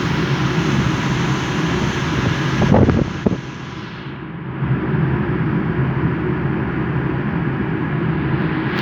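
Boat engine running with a steady drone, with a few sharp knocks about three seconds in.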